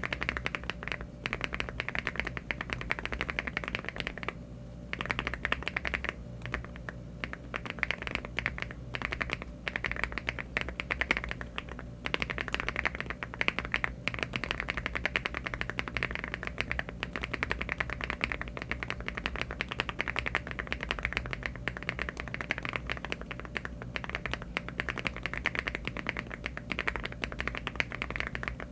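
Fast typing on a LEOBOG Hi75 aluminium mechanical keyboard with HMX Pink Salt switches under Cherry-profile keycaps: a dense run of keystroke clacks with a short pause about four seconds in.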